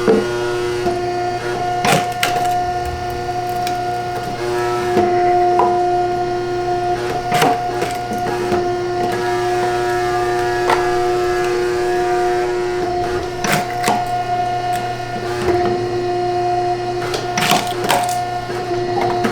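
A steady machine whine over a low hum, with scattered sharp knocks and clatters, most marked about two seconds in, near seven and a half seconds and around thirteen to eighteen seconds.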